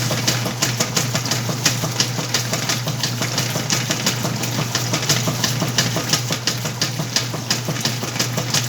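Whirlpool washing machine running a wash cycle on a load of clothes: a steady motor hum with a constant stream of irregular short clicks and splashes.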